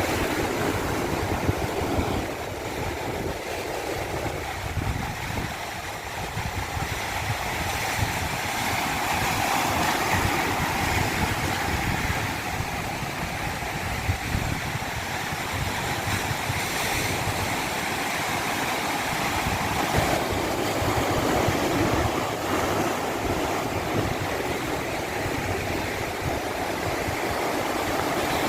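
Water of a stream rushing down a cascade: a steady, dense noise that eases a little a few seconds in and then builds again.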